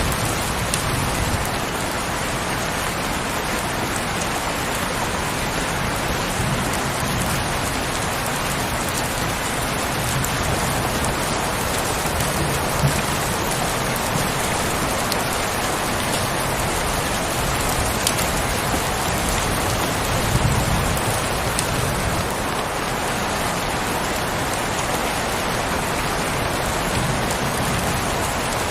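Heavy rain falling steadily: a dense, even hiss of many drops, with a few sharper drop ticks and occasional soft low rumbles.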